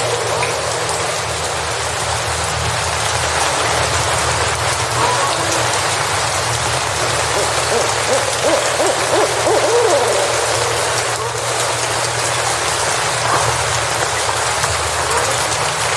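Steady rain hiss with an owl hooting repeatedly over it, short curved calls coming every second or two, and a steady low rumble underneath.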